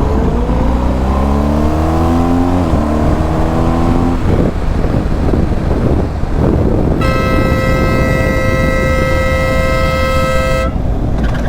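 Motorcycle engine accelerating over wind rush, its pitch rising, dropping at a gear change about two and a half seconds in, then rising again. About seven seconds in, a horn sounds one steady note for nearly four seconds.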